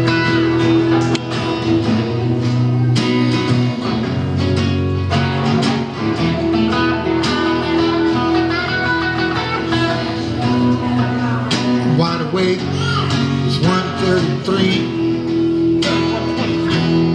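A live band playing an instrumental intro, guitar to the fore over held chords, with sharp hits at irregular intervals.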